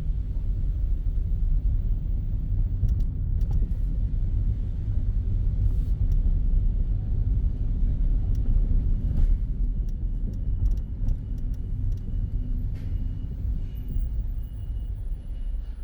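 A car driving in city traffic, heard from inside: a steady low rumble of engine and road noise.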